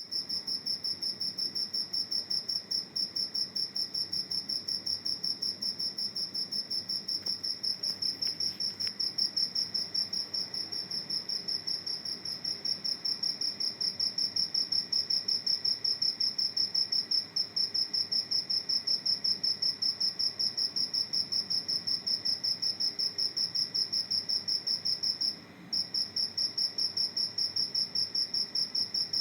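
A cricket chirping in a fast, even run of high, pure-toned pulses. It breaks off for a moment near the end, then carries on.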